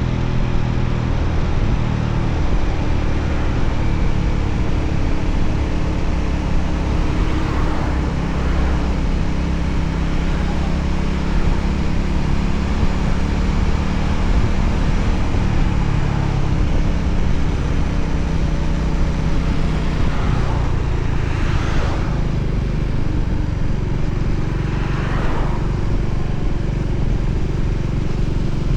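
Voge 300ACX single-cylinder motorcycle engine running steadily while riding, with wind noise on the bike. Other vehicles swish past a few times, mostly in the last third.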